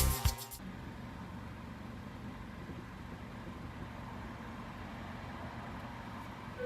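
A car engine idling with a steady low rumble, after the tail of music cuts off about half a second in.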